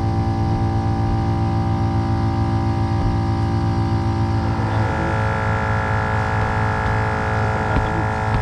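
A motor running steadily, with a pulsing low beat under a stack of even tones; about four and a half seconds in, it turns brighter and fuller in the upper range.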